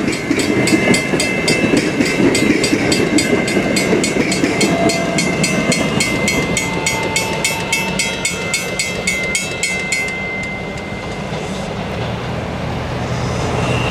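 South Shore Line electric multiple-unit commuter train passing close by, its wheels clicking in an even rhythm over the rail joints with a steady high whine. About ten seconds in the clicking stops and the sound fades as the train pulls away. Right at the end a high wheel squeal starts.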